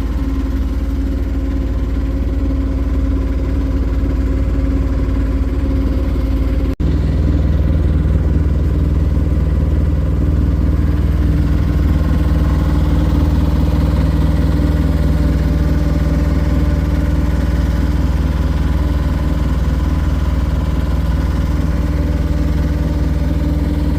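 Sailing boat's engine running steadily under way, with a brief dropout about 7 seconds in, after which its tone is slightly different.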